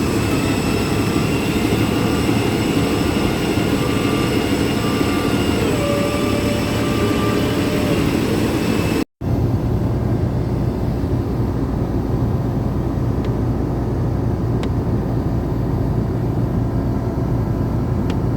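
Airbus A321 airliner's jet engines running: a steady engine noise with several steady high whining tones. About nine seconds in, a sudden cut leads to a duller, lower steady rumble.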